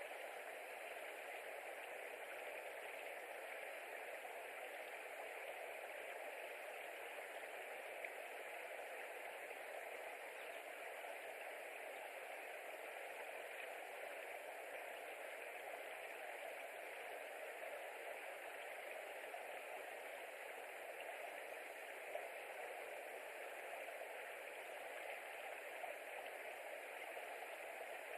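Steady, even hiss of outdoor background noise picked up by a nest camera's microphone, with a few faint ticks.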